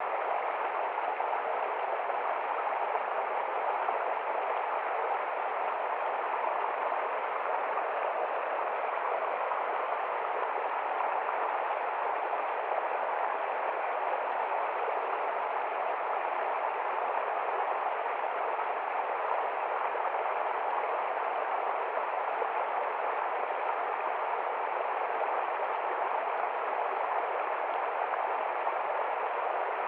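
River water flowing: a steady, even rush of running water with no breaks or changes.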